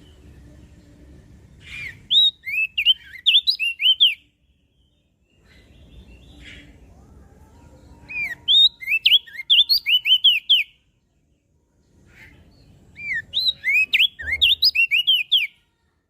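Crested white-eye (opior jambul) singing: three loud song phrases a few seconds apart, each a quick run of sharp, up-and-down whistled notes.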